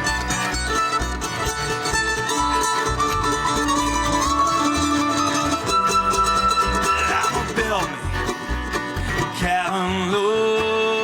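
A live bluegrass string band plays an instrumental break between sung verses, with no singing. In the second half there are sliding, wavering melody notes.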